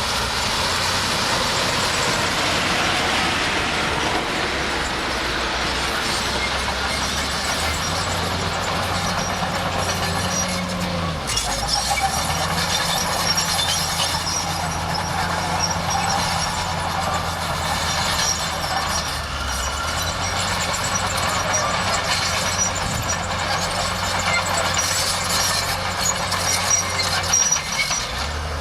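Bulldozer's diesel engine running steadily under load with a dense mechanical clatter over it; the engine note dips and picks up again about a third of the way in, and shifts once more a little past halfway.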